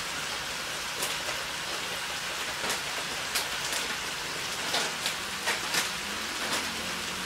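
Chicken pieces sizzling in a hot wok: a steady hiss with scattered crackles and pops.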